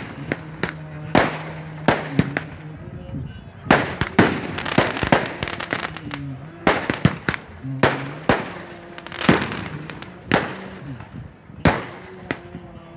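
Fireworks going off in an irregular string of sharp bangs, one or two a second.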